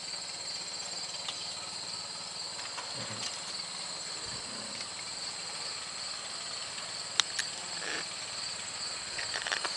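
Steady high-pitched insect chorus, with two sharp clicks a little past the middle.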